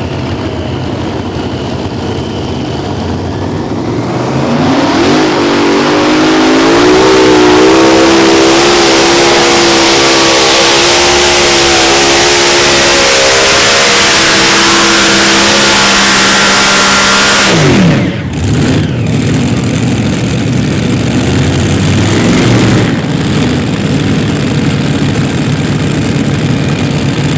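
Pulling tractor's Cummins 903 V8 diesel running up to high revs over a few seconds and holding a loud, steady pitch under load down the track. About two-thirds of the way through it drops off suddenly, and a lower, rougher engine noise carries on.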